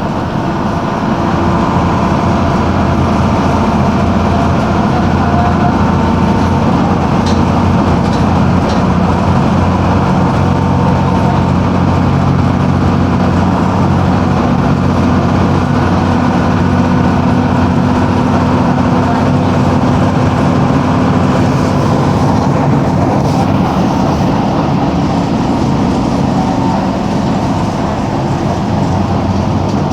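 Mercedes-Benz OF-1721 city bus's OM-366LA six-cylinder turbo-diesel engine running steadily, a low drone holding an even pitch.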